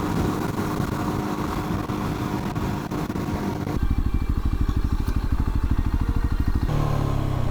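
Rieju motorcycle engine heard from the rider's position, with road and wind noise. About four seconds in the sound changes to a low, evenly pulsing engine beat, and near the end to a steadier, higher engine note.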